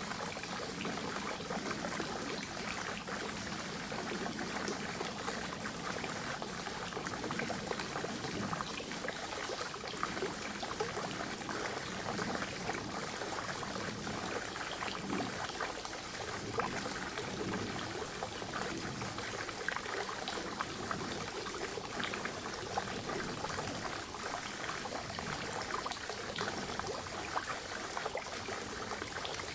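Spring water running steadily into a forest pond, a constant trickling and splashing made of many small drips and splashes.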